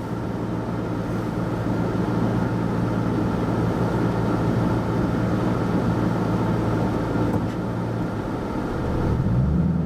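Car engine and road noise heard from inside the cabin while driving slowly, a steady low hum, with the engine note rising about nine seconds in.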